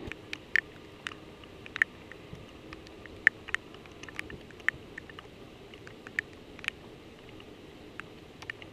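Irregular sharp ticks of raindrops striking close to the microphone, over a faint steady low hum.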